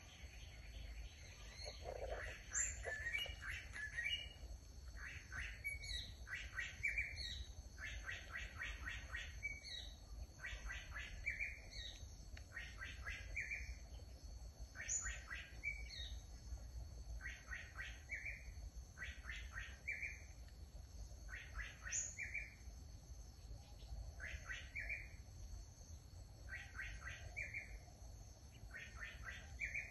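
A songbird singing the same short phrase over and over, roughly every one and a half to two seconds: a quick run of notes ending in a slurred note. A steady high-pitched drone runs in the background.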